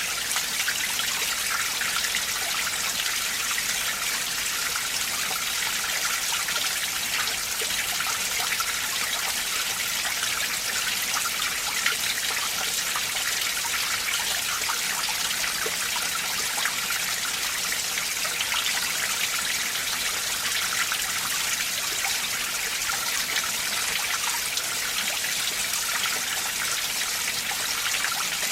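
Winter mountain stream running over rocks: a steady, bright rush and trickle of water that never lets up.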